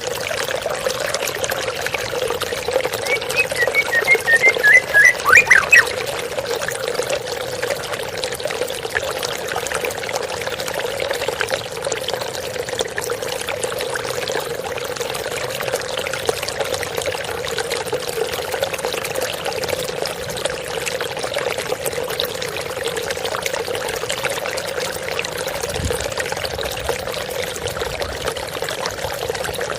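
Steady splashing of falling water from a small waterfall. About three seconds in comes one short phrase of bird song, a quick run of high notes ending in a few sweeping notes, typical of a white-rumped shama (murai batu).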